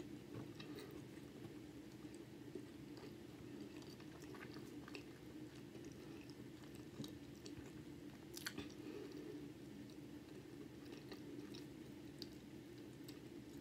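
Faint close-up chewing of a mouthful of chili cheese hot dog in a soft bun, with small wet mouth clicks, over a steady low hum.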